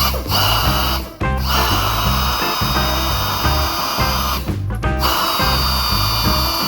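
A handheld power tool runs with a high whine over a hiss, in three runs broken by short stops about a second in and again near five seconds. Background music plays underneath.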